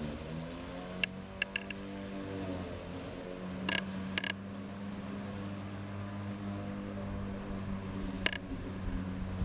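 Electric drive motor of a lawn tractor converted to electric, humming steadily; its pitch dips and rises again in the first second. A few sharp clicks and creaks come about a second in, near four seconds, and near the end.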